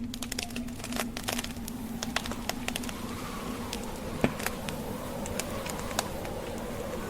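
Burning logs in a fireplace crackling and popping in irregular sharp snaps, one louder pop about four seconds in, over a steady wind rush with a faint wavering howl of a blizzard in the second half.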